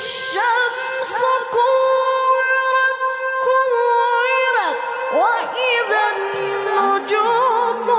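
Melodic Quran recitation in tajweed style by a high voice, holding long drawn-out notes ornamented with trills and glides, moving down to a lower pitch after about six seconds.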